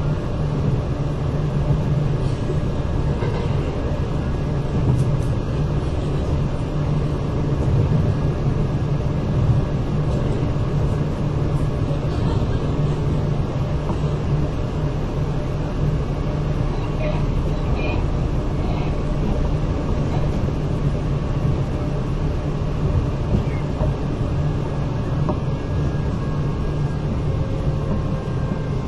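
Running noise inside a Kintetsu 8000 series electric train car under way: a steady rumble of wheels on rail and motors that keeps an even level throughout.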